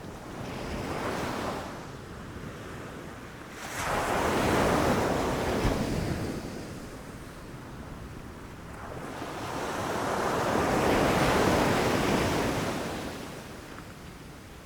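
Ocean waves breaking on the shore and washing back, in three surges: a small one about a second in, a larger one that breaks suddenly near four seconds, and a long swelling one in the second half.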